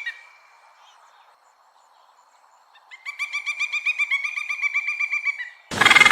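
A bird trilling: a fast run of repeated high notes, about eight a second. It stops right at the start, comes back about three seconds in and runs for a couple of seconds, and then a louder, harsher call breaks in near the end.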